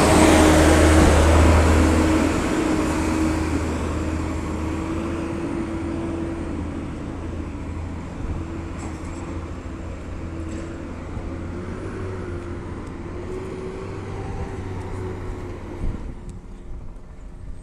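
Garbage truck's diesel engine running with a wavering whine, fading steadily over about sixteen seconds as it drives away; the sound drops off abruptly near the end.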